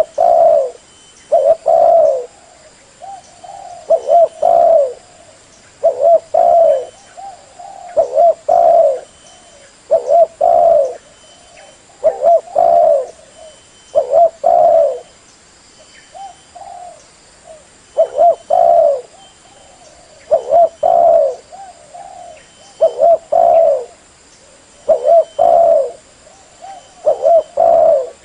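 Female spotted dove cooing: short, repeated phrases of low coos coming about every two seconds. This is the female call played to rouse a caged decoy male.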